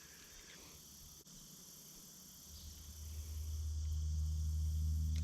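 Crickets and other insects trilling steadily in the background. About halfway through, a low steady hum fades in and becomes the loudest sound.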